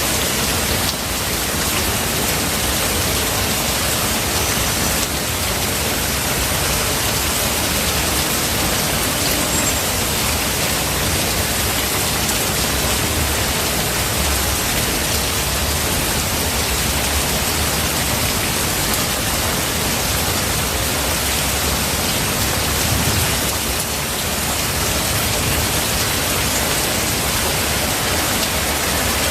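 Steady rain falling in a forest, an even hiss with no let-up. A brief low rumble swells about two-thirds of the way through.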